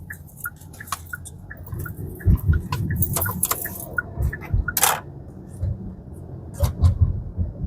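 Car cabin while driving: a steady low road rumble, with a regular light ticking about three times a second through the first half. Several sharp clicks and knocks come around the middle and again near the end.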